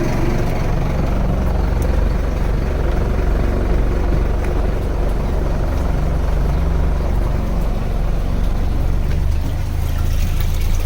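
Fishing boat's engine running steadily at low revs, a constant low hum, with a steady wash of noise over it.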